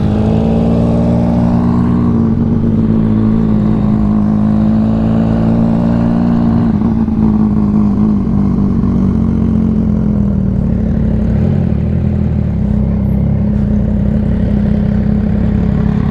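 Motorcycle engine running under way. Its pitch rises over the first couple of seconds as it accelerates, holds, then drops around six to seven seconds in as it slows, before running steadily again.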